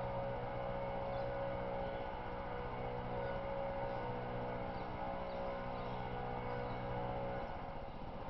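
A steady mechanical drone made of several fixed tones, like a motor or engine running at an even speed, which shifts slightly near the end.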